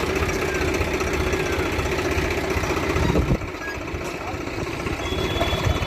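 Heavy diesel engine of an earth-moving machine or tractor running steadily, dropping suddenly in loudness a little over three seconds in.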